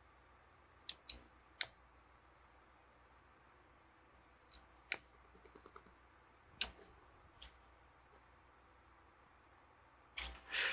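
Plastic Lego pieces clicking as they are picked up and handled: a dozen or so sharp, irregular clicks with pauses between, a quick run of small rattling clicks about halfway, and a short rustle near the end.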